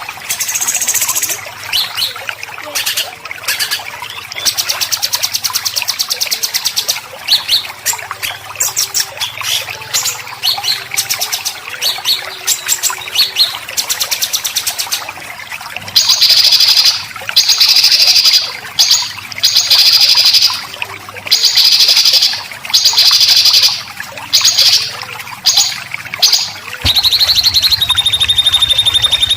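Harsh, rattling songbird calls of the 'besetan' type, as used in white-rumped shama and greater green leafbird song-training recordings: rapid strings of short buzzy notes, then from about halfway loud, high buzzy bursts roughly once a second. Near the end a steady high whistling tone sets in over a low hum.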